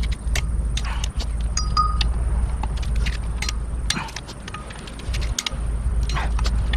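Metal tools and parts clicking and clinking many times, with a few short ringing pings, over a low steady rumble.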